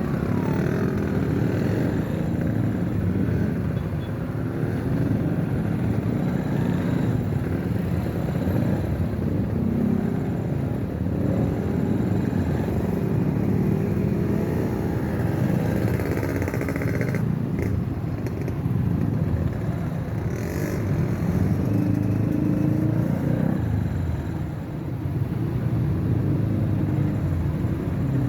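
Motorcycle engine running steadily while riding, its pitch shifting a little with throttle, with a few brief higher-pitched sounds about two-thirds of the way through.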